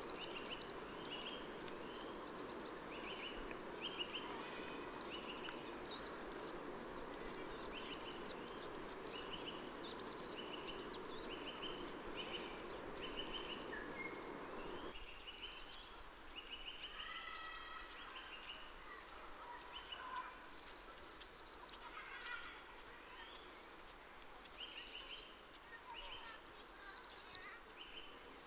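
Small garden songbirds chirping and singing, with a short song phrase of very high notes ending in a lower trill repeated every five or six seconds. The chirping is dense at first and thins out about halfway, where a faint background hiss stops abruptly.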